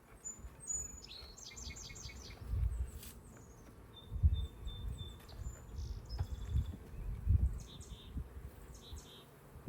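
Small birds chirping and trilling in short high bursts over the low hum of a honeybee colony, with several soft low bumps on the microphone.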